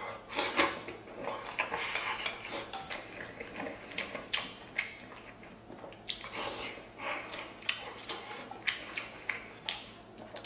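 Close-up eating sounds: utensils clicking against dishes many times over, with wet mouth noises of chewing braised pork belly.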